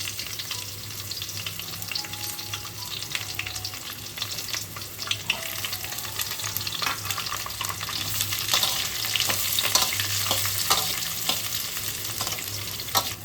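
Chopped onion frying in hot mustard oil in a kadai, sizzling and crackling while a spatula stirs and scrapes it. The stirring strokes grow more frequent in the second half, over a low steady hum.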